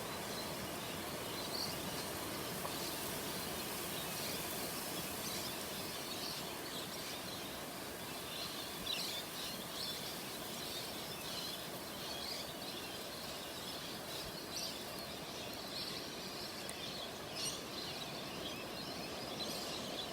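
Steady rushing noise of a windstorm with rain, and birds chirping and calling on and off through it, more often in the second half.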